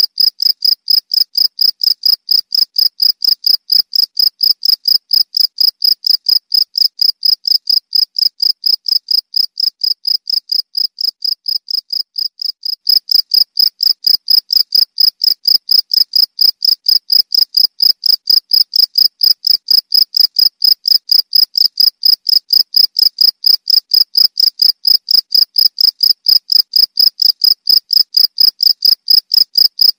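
Field crickets chirping steadily: a rapid, even train of high, pure-toned pulses, about five a second. The level sags slightly and then steps back up about 13 seconds in.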